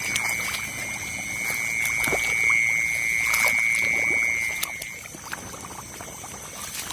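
Night chorus in a rice paddy: a steady high-pitched insect or frog trill that stops about five seconds in, over fainter continuous high buzzing. Short splashes of water break in here and there as someone wades through the flooded field.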